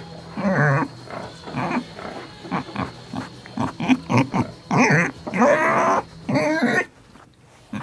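Piglets squealing and grunting in a quick run of short, wavering calls, with a quieter lull near the end.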